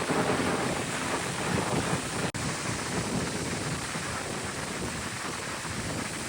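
Wind buffeting the microphone over beach surf: a steady rushing noise, broken by a very brief dropout a little over two seconds in.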